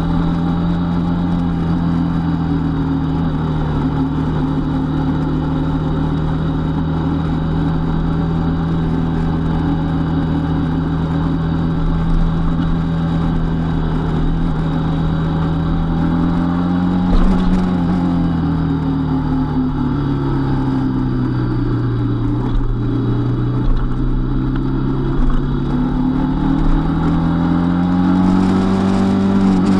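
Motorcycle engine running steadily under way, heard from the bike itself. Its pitch falls past the middle as the bike slows, then climbs again near the end as it speeds back up.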